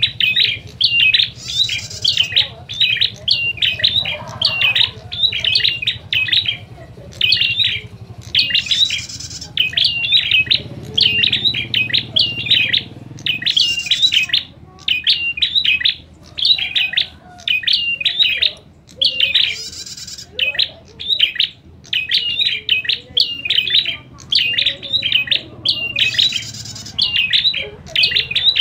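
Prinias giving an agitated 'fighting' call: quick runs of sharp, rapidly repeated chirps, one after another with only brief pauses. A higher, hissing note breaks in every few seconds.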